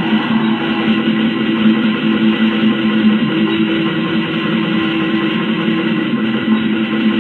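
Lo-fi black metal: heavily distorted electric guitars tremolo-picking held chords over bass, dense and steady, with no vocals heard.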